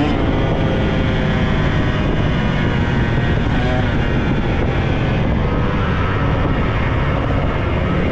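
Dirt bike engine running steadily under way, its pitch shifting a little as the throttle changes.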